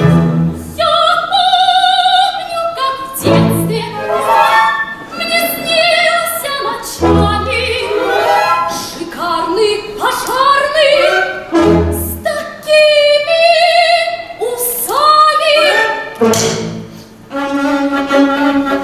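A young woman singing a song, her held notes wavering with vibrato, over musical accompaniment with a low beat every few seconds.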